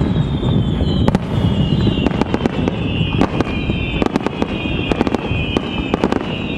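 Fireworks display with many aerial shells bursting in quick succession: sharp bangs and crackling over a continuous rumble, with a high whistling throughout.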